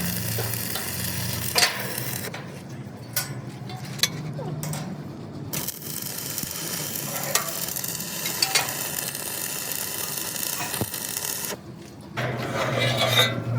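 Electric arc welding on steel, a steady crackling sizzle with a low hum under it in places and a few sharp clicks.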